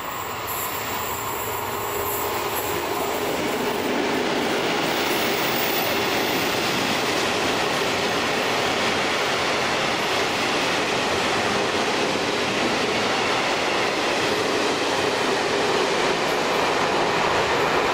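Freight train of tank wagons, hauled by an electric locomotive, running through the station: a loud rolling rumble of wheels on rails. It grows louder over the first few seconds as the train arrives, then holds steady as the wagons pass.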